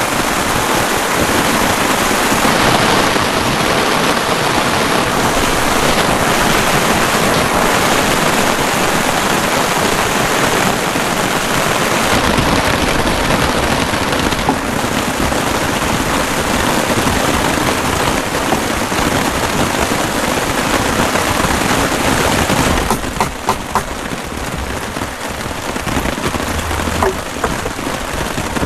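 Heavy rain falling, a dense steady downpour with rapid patter of drops; about 23 seconds in it eases a little and single drops stand out.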